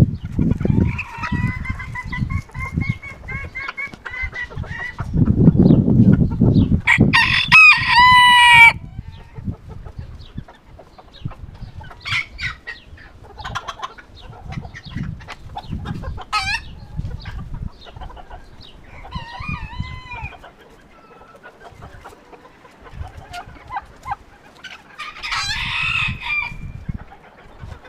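Roosters crowing and hens clucking, with the loudest crow about seven to nine seconds in and quieter calls after. Wind buffets the microphone in low gusts during the first nine seconds.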